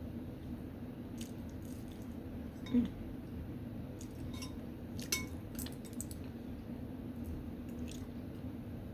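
Utensils and food being handled in a dish of seafood boil: a soft knock about three seconds in and a sharp clink with a brief ring about two seconds later, with a few faint ticks over a steady low hum.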